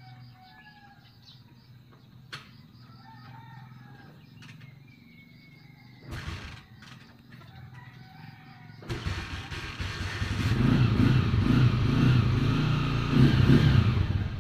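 Faint bird calls and chirps over a quiet outdoor background, with a few clicks. About nine seconds in, a loud, rough rumbling noise starts suddenly and grows louder.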